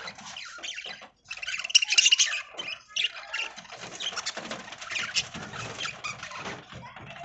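A flock of budgies chattering and chirping, busy and irregular, with a loud stretch of high chirps a little over a second in.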